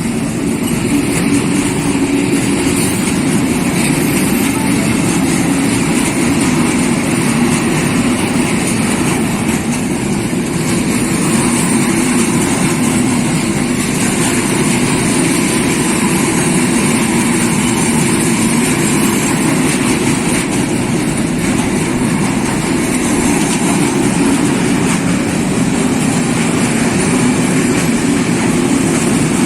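Diesel train running steadily: a constant low engine drone over an even rushing noise, with no break or change.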